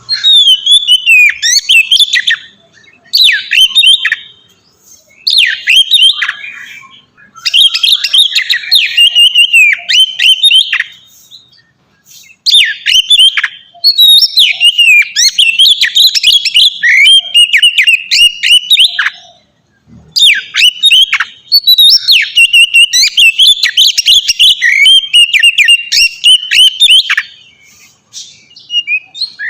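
Oriental magpie-robin (kacer) singing loud, long phrases of whistles and quick sweeping notes, broken by short pauses between bursts.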